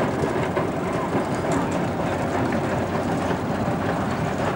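Small narrow-gauge train of a locomotive and open carriages running slowly by, with a steady rattling clatter of wheels and running gear on the track.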